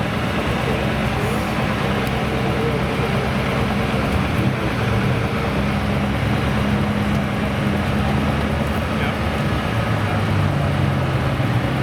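Supercar engines running steadily at low revs, with no sharp revving or acceleration.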